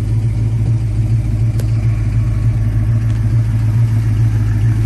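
1963 Ford Fairlane restomod's engine idling steadily with a deep hum. A single sharp click comes about one and a half seconds in.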